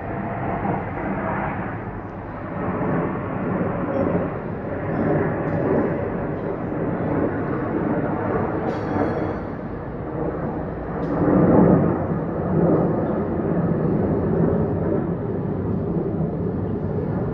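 Helicopter in flight: a steady rotor and engine rumble that swells and fades, loudest about two-thirds of the way in.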